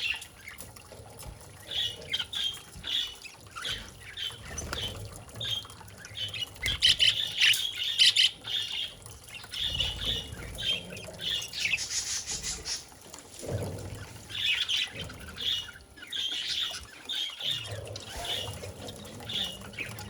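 Pet budgerigar chirping in a run of short calls, about two a second, with denser, louder chatter twice midway.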